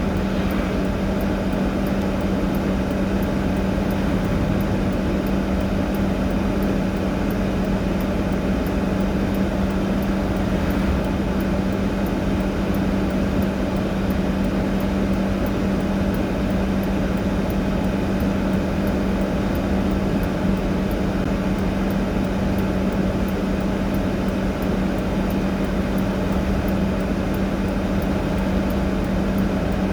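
Steady drone of an idling vehicle engine, holding one unchanging hum with no revving.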